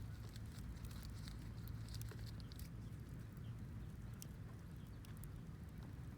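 Campfire crackling: scattered small snaps and pops over a faint low hum.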